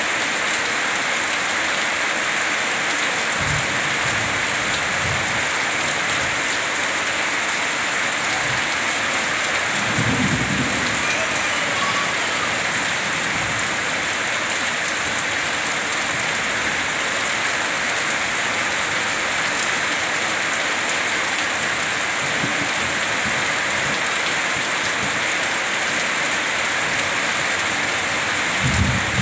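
Heavy rain falling steadily on a roof and a muddy yard, with water pouring off the roof edge. Low thunder rumbles briefly a few times, most strongly about ten seconds in and again near the end.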